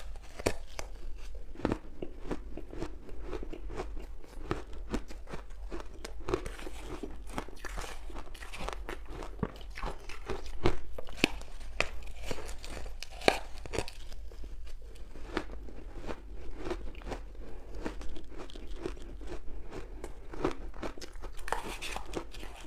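Close-up of ice cubes dusted with matcha powder being bitten and chewed: a steady run of sharp, crackly crunches, a few of them louder about halfway through.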